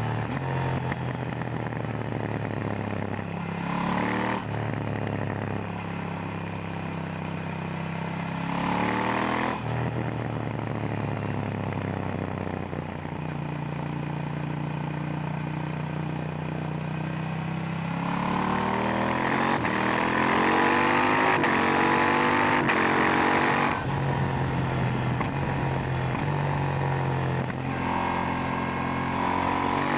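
KTM 890 Duke R's parallel-twin engine on the move through its stock silencer. It pulls up through the revs with a sudden drop in pitch at each upshift, about 4 and 9 seconds in, holds a steady note for several seconds, then pulls hard again and shifts up once more.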